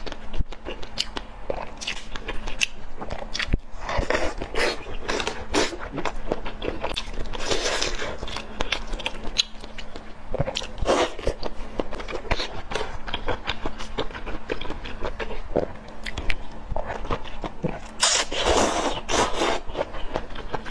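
Close-miked eating sounds: chewing and biting into soft oden pieces, with wet lip smacks and small mouth clicks in an irregular stream. A longer, louder burst of mouth noise comes near the end.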